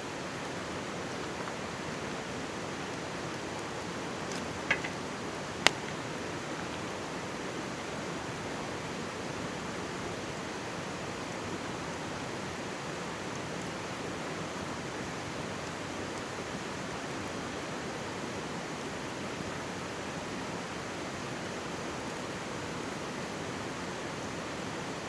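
Mountain stream rushing steadily beside a wood campfire, with a couple of sharp pops from the burning wood about five seconds in, the second the loudest.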